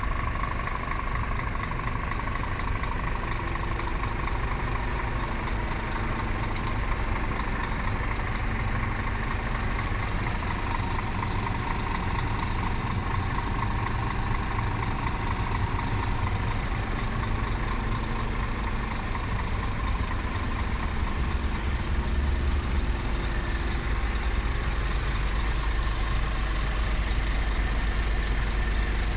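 Scania R480 truck's six-cylinder diesel engine idling steadily, a little heavier in the low end in the second half.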